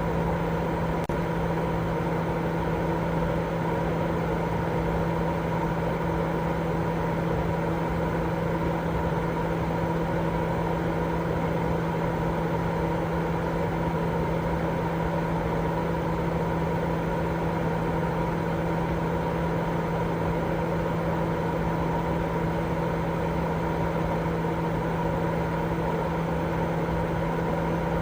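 Continuous baby-sleep white noise: an unchanging hiss with a steady low hum beneath it.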